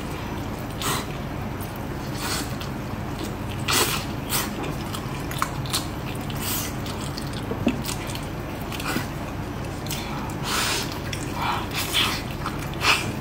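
Close-up eating sounds of braised pork trotter: wet chewing, sucking and lip-smacks on the sticky skin and meat, coming in short irregular bursts every second or two.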